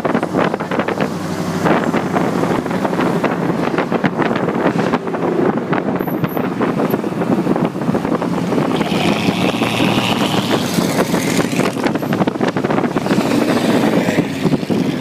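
Wind buffeting the microphone over a steady vehicle rumble, loud and unbroken.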